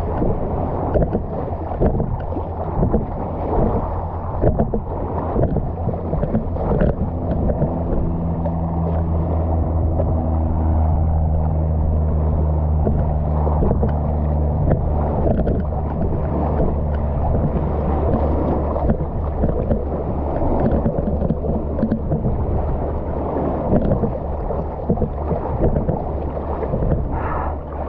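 A boat motor running steadily with a low hum that grows louder for a while in the middle, over continuous water splashing and sloshing.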